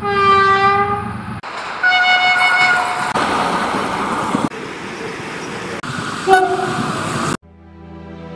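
Spliced snippets of railway sound: a locomotive horn blast, then a second, higher horn note, then stretches of train running noise broken by abrupt cuts, and another short horn blast. About a second before the end it cuts suddenly to music with a sustained chord.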